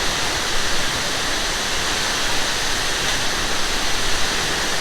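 Loud, steady rush of a large waterfall crashing into its pool.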